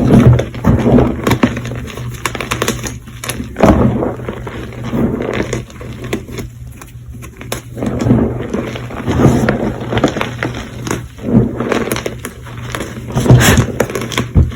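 Fresh, semi-squeaky Colift gym chalk being crushed and squeezed in repeated crunching bursts, about one every second or two, full of small crackles.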